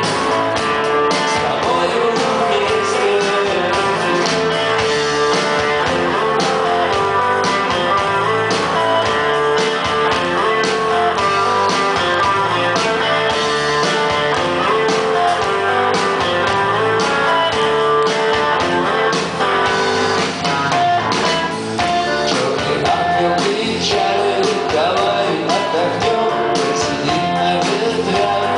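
Live rock band playing, with guitars over a steady beat, recorded from the audience at a loud concert.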